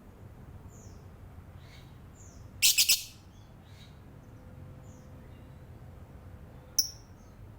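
Lovebird chattering: short soft chirps about once a second, a loud shrill burst of four quick calls about two and a half seconds in, and another sharp call near the end.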